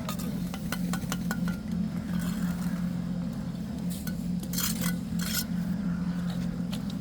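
Metal clinking and scraping, like tools worked against hard material, over a steady low hum. Two longer, louder scrapes come a little past the middle.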